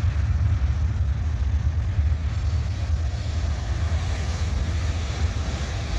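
Freight train cars rolling past, a steady low rumble with a hiss of wheels on rail that swells a little midway.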